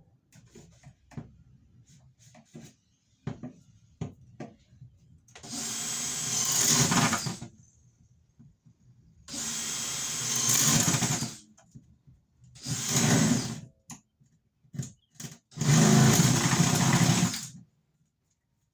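Power drill running in four bursts of one to two seconds each, with light clicks and knocks in the first few seconds.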